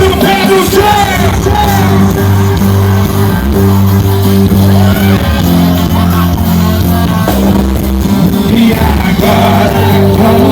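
Loud live sertanejo band music through a concert sound system, with steady sustained bass notes, some singing and shouts from the crowd.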